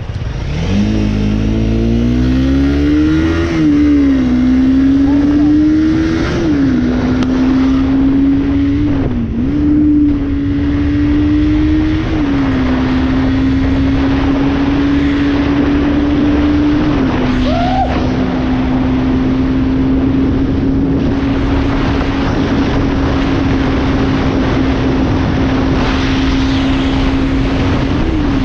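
Motorcycle engine accelerating hard through the gears: its pitch climbs and drops back at each upshift, four or five times in the first dozen seconds, then holds steady at cruising speed, over steady wind rush.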